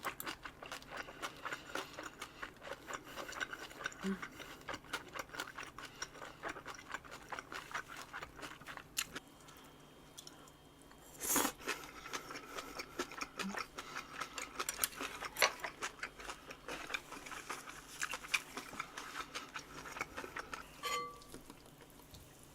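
Close-miked chewing and crunching of a kimchi and boiled-pork bossam wrap: a steady run of small wet crunches, with one louder crunch a little past the halfway point.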